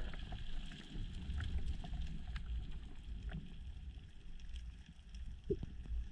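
Underwater ambience picked up by the camera: a steady low rumble of water with faint scattered clicks and ticks.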